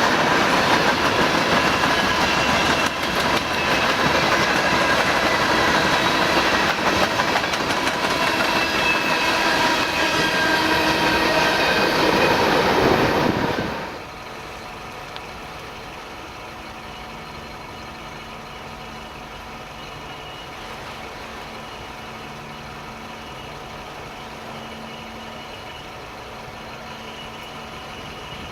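A train rolling past close by, a loud steady rumble of wheels on rail with thin high squealing tones above it. It falls away abruptly about halfway through, leaving a quiet low steady hum.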